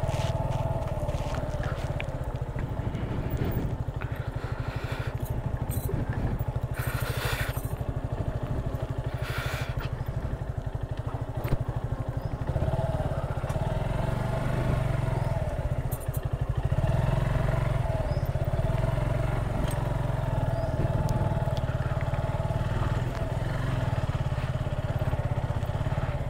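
Motorcycle engine running steadily as the bike is ridden, a low, even engine note with rapid firing pulses.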